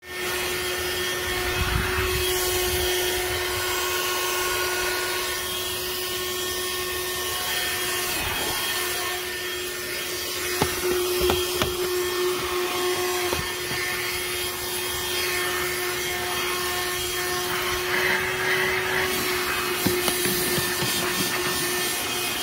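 A Black+Decker Dustbuster QuickClean cordless handheld vacuum running, with a steady motor whine over its airflow noise and scattered clicks and knocks.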